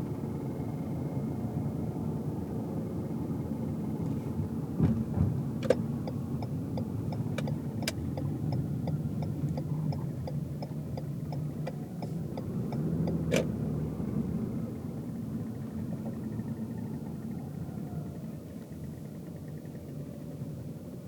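Car cabin noise while driving: a steady low rumble of engine and tyres on the road. Through the middle there is a run of quick, evenly spaced ticks, about three a second. There are also a few sharp knocks near the start of the ticking and again about thirteen seconds in.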